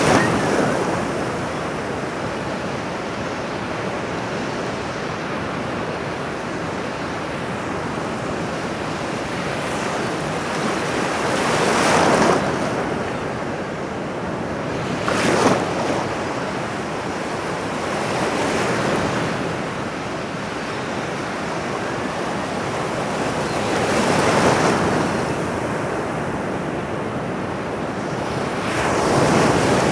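Ocean surf: a continuous wash of waves on a shore, with a louder wave breaking every few seconds.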